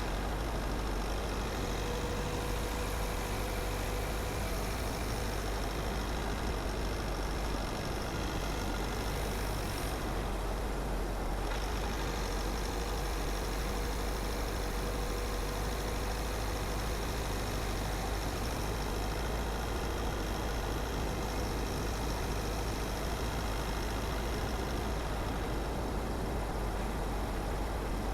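Car driving along a road at a steady pace: a continuous mix of engine and tyre road noise, even in level throughout.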